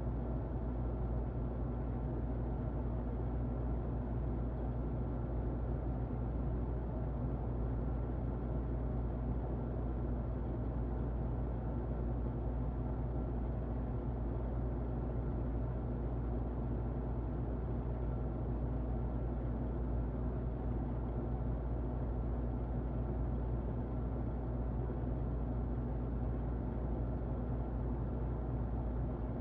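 Electric fan running steadily, heard muffled: a low, even whoosh with a faint steady hum and no changes.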